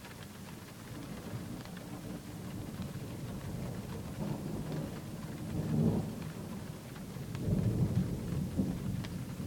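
Thunder heard from inside a closed car: a low rolling rumble that builds over several seconds and swells loudest about six seconds in and again around eight seconds in.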